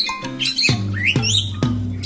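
Background music with a steady tune, over which a talking pet bird gives a few short high calls that slide up and down in pitch during the first second or so.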